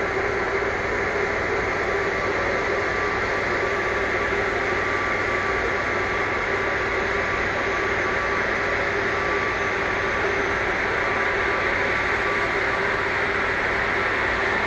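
Jet engines of a taxiing Airbus A330-300 running at low taxi power: a steady rushing hum with a faint steady whine.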